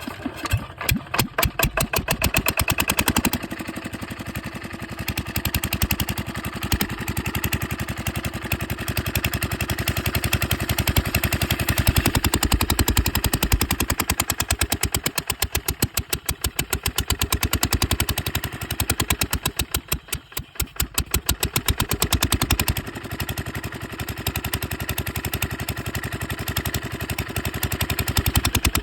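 Small single-cylinder 8 hp engine running under load testing, with rapid even firing pulses. Its level sags and picks back up several times.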